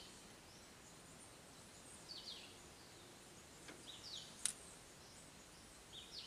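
Faint outdoor quiet with a bird calling: short falling chirps, repeated about every two seconds. A single sharp click comes about four and a half seconds in.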